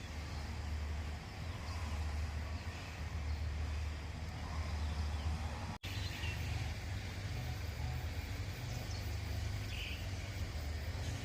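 Outdoor background noise: a steady low rumble, broken by a brief dropout a little before halfway.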